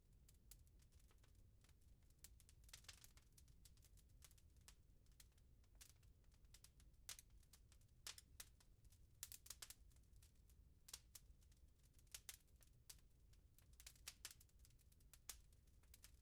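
Wood fire in a fireplace crackling, with irregular sharp pops and snaps over a low, steady rumble of burning.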